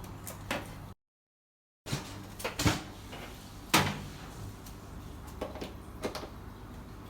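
A few sharp knocks and clacks of hard objects being handled, over a steady low hum, with the sound cutting out completely for about a second shortly after the start.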